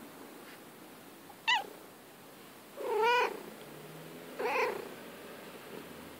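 Domestic cat meowing three times: a short high falling meow, then a longer one that rises and falls, then a shorter one.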